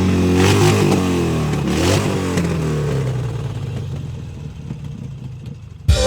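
Engines revving, their pitch rising and falling in the first couple of seconds, then steadily fading away. Background music cuts in near the end.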